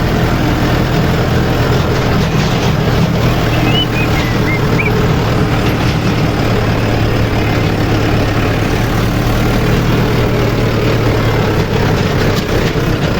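Mahindra 415 DI diesel tractor engine running steadily while driving, heard loud from on board the tractor.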